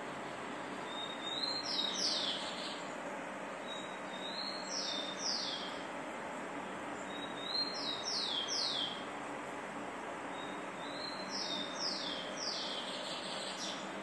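A songbird singing the same short phrase four times, about every three seconds: a quick rising note followed by two or three fast downward-sliding notes. A steady hiss runs underneath.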